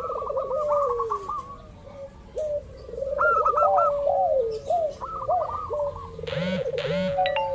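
Several zebra doves (perkutut) cooing at once, their quick, repeated, warbling call notes overlapping without a break. About six seconds in there is a brief, louder, rough sweeping sound.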